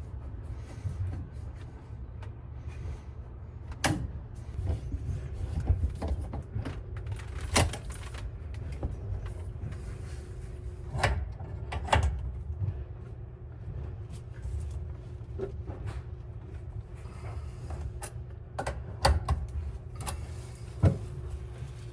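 Steady low road rumble inside a moving vehicle's cabin, with sharp knocks and rattles every few seconds.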